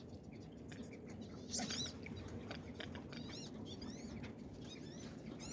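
Ducks calling: a string of thin, high whistled notes that rise and fall, the loudest about a second and a half in and several more near the end, over faint scattered clicks and pattering.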